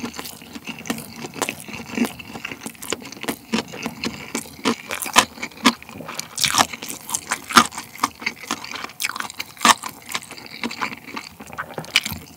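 Close-miked chewing of a mouthful of crab salad kimbap, a seaweed rice roll made with sushi rice: irregular clicking mouth sounds, several a second.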